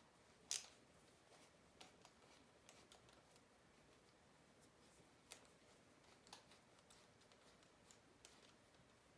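Mostly near silence with a few short clicks and taps from parts being handled while the dirt bike's airbox is taken apart, the sharpest about half a second in.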